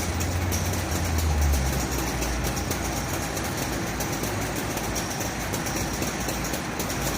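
Fire truck engine idling, a steady low rumble that swells for the first couple of seconds and then settles.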